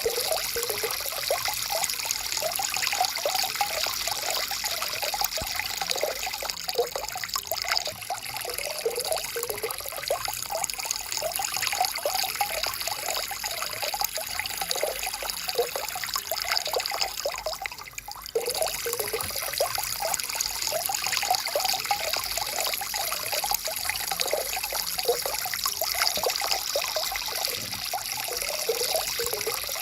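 Stream water flowing and trickling, with a constant run of small bubbling gurgles. The sound briefly dips for a moment about two-thirds of the way through.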